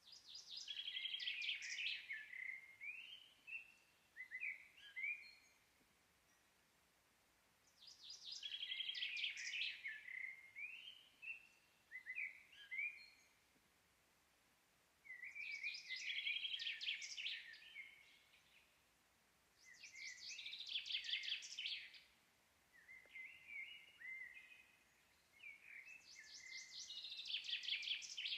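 A songbird singing, about five song phrases of two to four seconds each, every phrase a fast trill followed by short rising slurred notes, with quiet pauses in between.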